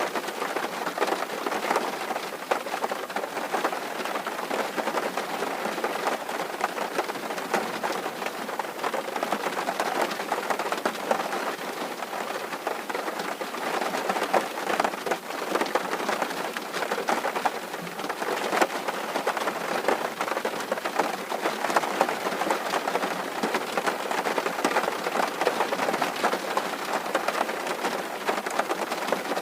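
Steady rain falling on a tin roof: a dense, even stream of small drop hits with no lulls.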